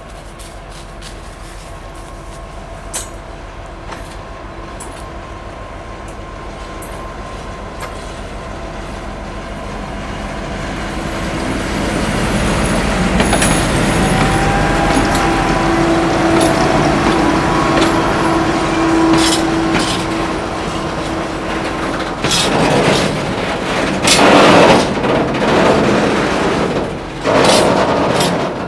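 M62 diesel locomotive hauling a freight train, growing steadily louder as it approaches over the first dozen seconds, its engine drone steady, then loud clattering of wheels and wagons over the rails near the end as the train passes.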